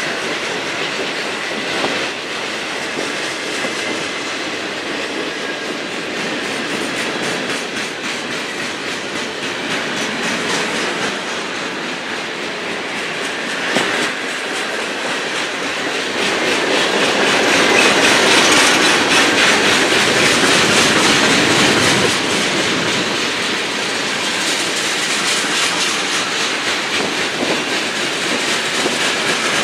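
Freight train cars rolling steadily past, their wheels clattering rhythmically over the rail joints. The clatter swells to its loudest a little past halfway through, then eases off somewhat.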